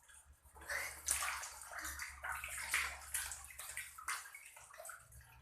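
Water splashing and sloshing in a basin as freshly scaled biawan fish are rinsed and moved about by hand, in irregular bursts.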